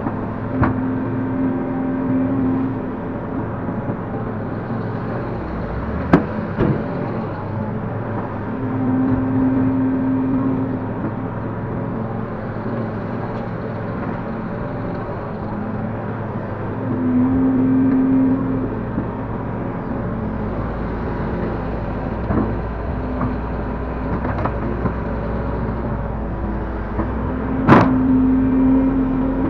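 Link-Belt 145X3 hydraulic excavator's diesel engine running steadily, with a higher hum that swells for about two seconds four times, roughly every eight seconds, through the dig-and-load cycle. Several sharp knocks come through, the loudest near the end.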